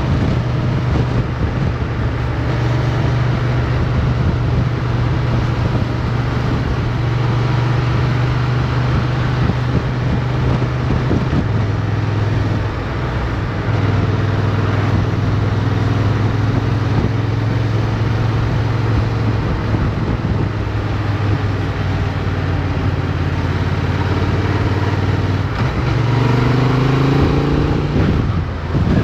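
Motorcycle engine heard from an onboard camera while riding, holding a steady speed. Its pitch drops about a third of the way in, rises as the bike accelerates near the end, then dips briefly, like a gear change.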